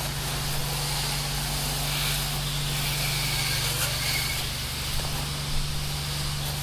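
Soft-wash rig's pump running steadily under the hiss of a spray soaking a pool screen enclosure. The spray is stronger in the middle of the stretch.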